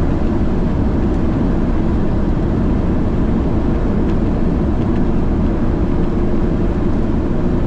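Heavy truck's diesel engine and road noise heard inside the cab while driving, a steady low drone.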